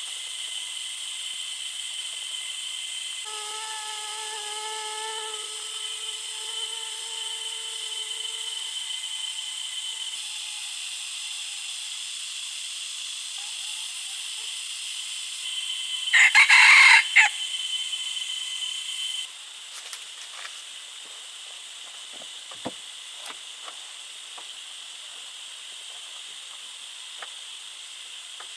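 A cock crows once, a few seconds in, over a steady high-pitched insect drone. A brief loud rushing burst comes about sixteen seconds in, then the drone falls away, leaving scattered light clicks.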